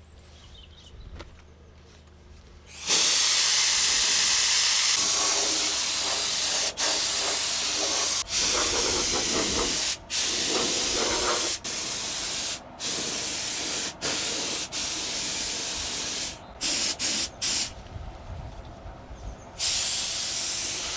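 Paint spray gun spraying thinned undercoat, a loud, even hiss in long passes broken by brief gaps, starting about three seconds in and turning into short bursts near the end.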